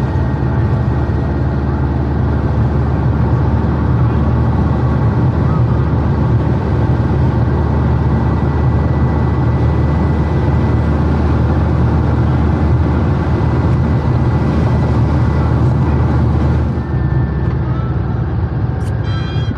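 Air-cooled flat-four engine of a VW Type 1 Beetle running steadily under way, heard from inside the cabin. The engine note drops about three seconds before the end as the car eases off.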